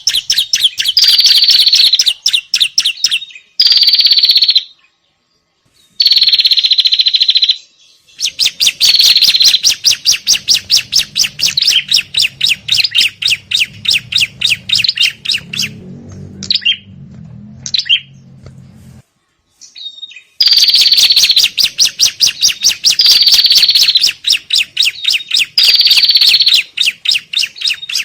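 Bird-lure recording of small songbirds' noisy scolding chatter (prenjak and ciblek, i.e. prinias), rapid repeated high calls in bursts of a second or two with short breaks between them. A faint low hum sits underneath through the middle stretch.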